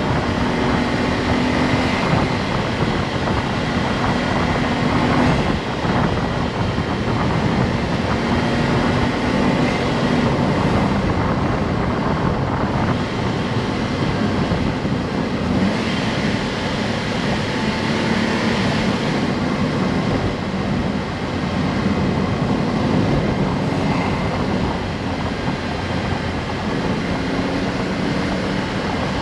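Honda S660's mid-mounted turbocharged three-cylinder engine running while the car is under way, over steady road and wind noise. The engine note shifts up and down a little as the speed changes.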